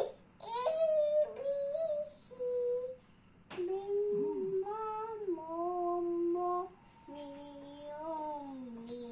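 A young child singing a wordless tune in a series of long held notes with short pauses between them.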